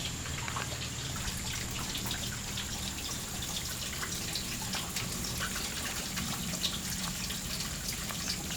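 Small, barely running waterfall: water dripping and trickling off a rock ledge in irregular drops over a faint steady rush, with a thin steady high tone.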